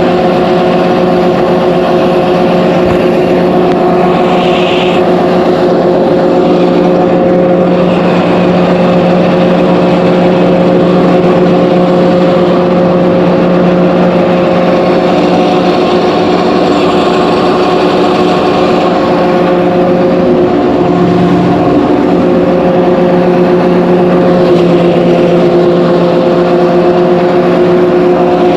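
Engine running steadily at a constant speed, a loud, even hum that holds one pitch throughout.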